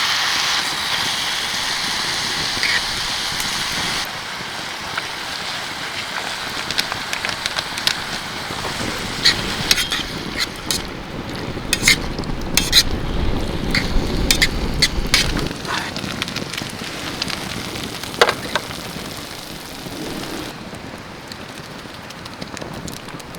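Campfire crackling and sizzling, with scattered sharp pops that cluster through the middle. The background changes abruptly twice.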